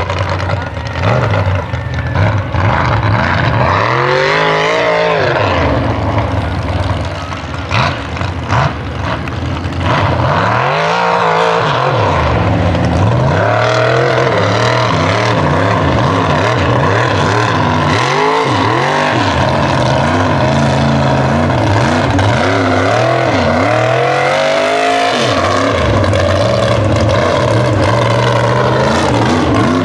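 Mud bog truck engine revving hard under heavy throttle, its pitch rising and falling over and over as the driver works the throttle.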